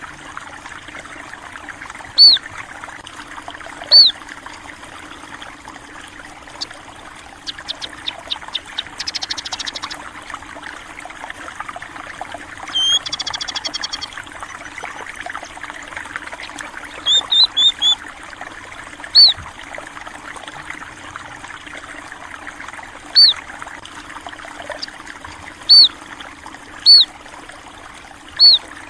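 Water trickling and flowing steadily, with small birds giving short, loud single chirps every few seconds. A quick run of ticking notes comes about a third of the way in, and a brief trill near the middle.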